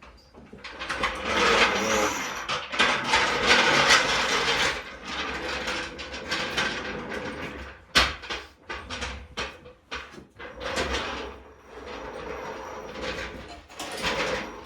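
A floor jack being rolled and worked under a transmission: scraping and clattering of metal, with a sharp knock about eight seconds in.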